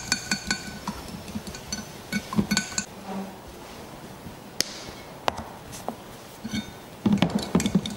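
A whisk clinking rapidly against a bowl as the chicken marinade is whisked. The strokes come in quick runs with a ringing tone, ease off to a few separate taps in the middle, then pick up again near the end.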